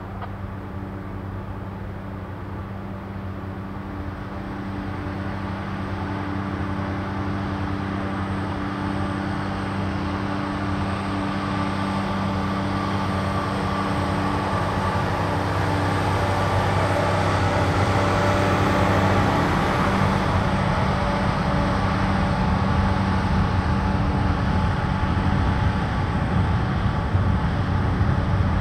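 Continuous welded rail train being shoved slowly past: a steady diesel engine hum and the rolling rumble of the rail cars' wheels on the track, growing louder as the cars come by. The engine hum fades about two-thirds of the way through, leaving the wheel noise.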